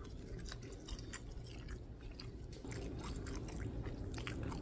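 A person biting into and chewing crunchy fried food, an irregular run of sharp crunches and clicks.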